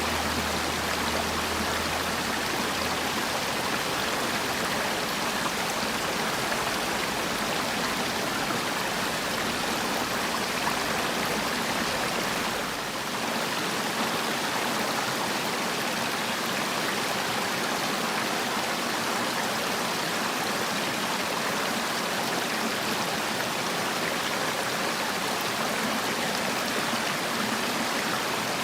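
Mountain valley stream rushing steadily over rocks, as continuous water noise with a brief slight dip about halfway through.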